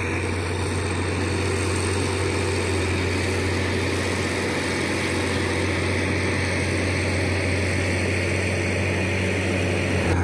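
Heavy machinery engine running steadily under load, a continuous low drone with no change in pitch.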